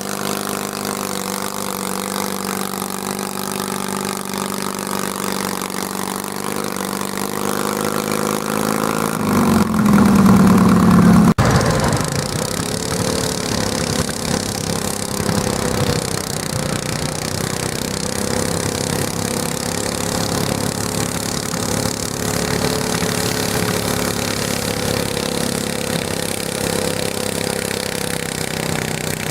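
Garden tractor engine running hard and steady, rising in pitch and getting louder to a peak about ten seconds in, then dropping back abruptly and running on.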